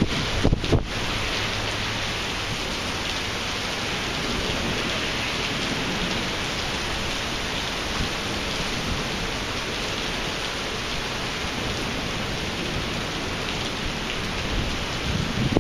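Heavy thunderstorm downpour falling on a flooded parking lot: a steady, dense hiss of rain, with a brief buffet of wind on the microphone in the first second.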